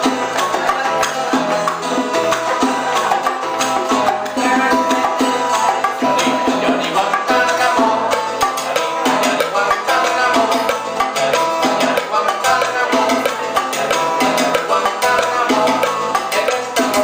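Live Cuban salsa band playing an instrumental passage, with a steady beat of hand percussion and a repeating bass line.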